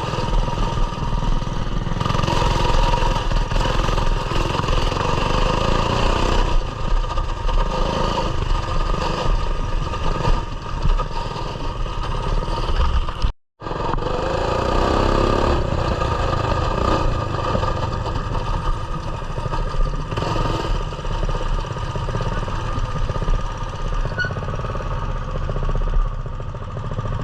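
Coleman mini bike's small single-cylinder four-stroke engine running continuously as the bike is ridden along a muddy trail, the sound rising and falling with the throttle. The sound cuts out completely for a moment about halfway through.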